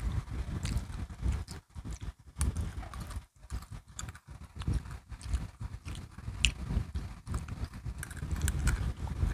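Close-miked chewing and crunching of crisp biscuit sticks: irregular crunches with a few sharper clicks.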